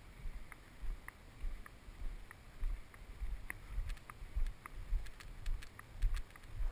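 A hiker's footsteps, low thuds about twice a second, with light clicks between them.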